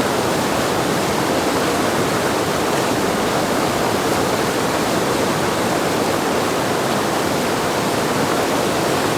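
Whitewater of a river play wave at high flow, a steady loud rushing with no breaks.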